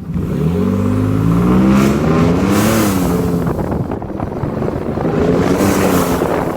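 Ford Raptor's twin-turbo 3.5 L EcoBoost V6, tuned and breathing through a Corsa Extreme cat-back exhaust with downpipes, accelerating hard. The engine note climbs for about three seconds, drops at a gear change, and climbs again near the end.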